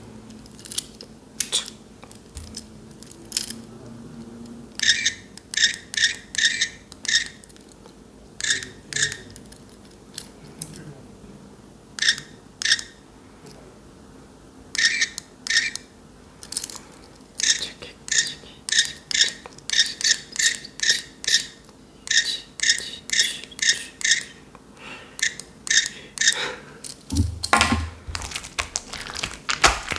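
Slime being pressed and poked by hand, making crisp, wet clicking pops in quick runs of several a second, sparse at first and almost continuous later. Near the end there is a heavier, lower thump.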